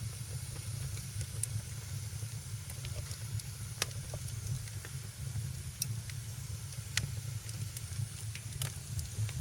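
Wood fire crackling in a fireplace: sharp pops every second or so, a few louder than the rest, over a steady low rumble and a soft hiss.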